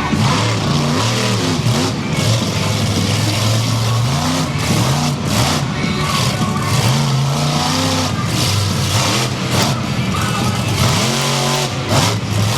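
Monster truck engine revving up and down again and again, loud, over a dense wash of noise.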